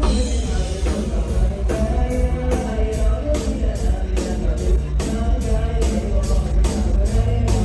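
Live Thai lam sing (electric mor lam) band music: a steady fast beat with heavy bass drum and pitched instrument lines, with a little singing.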